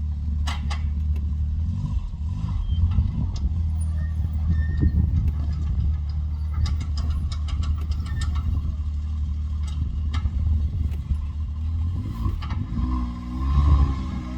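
Off-road vehicle engine running with a steady deep rumble while working over a rocky obstacle, with scattered sharp clicks and knocks in the middle. Near the end the engine pitch rises and falls as it revs.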